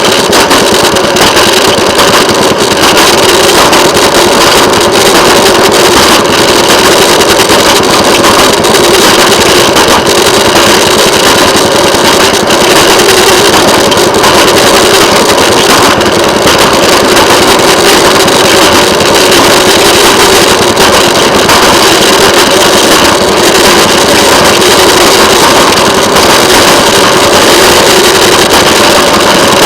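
Railway motorcar (track speeder) under way, its engine running steadily and loudly without a break.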